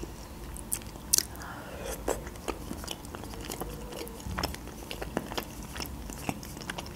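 Close-miked chewing of soft pelmeni dumplings in cream sauce: wet mouth clicks and smacks, scattered irregularly, with one sharper click about a second in.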